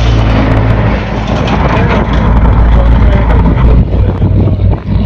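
A car engine running loudly close by, with a low, steady note; the sound swells up at the start as it comes near.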